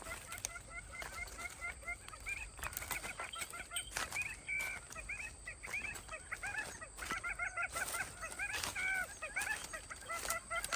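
A flock of domestic fowl calling: many short, repeated calls overlapping one another, with a few sharp clicks among them.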